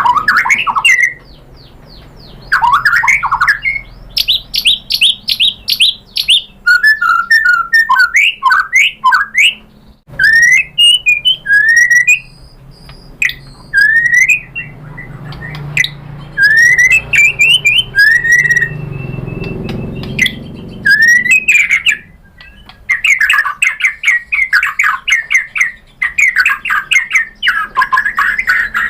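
White-rumped shama (murai batu) singing a loud, varied song of whistled slurs, rising notes and rapid trills in short phrases with brief pauses, turning into a fast, continuous chatter near the end.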